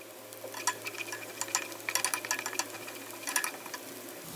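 Chopped garlic and onion frying in oil in a wok with a soft sizzle, as a wooden spatula stirs them, scraping and knocking against the pan several times. The aromatics are being sautéed until soft and translucent.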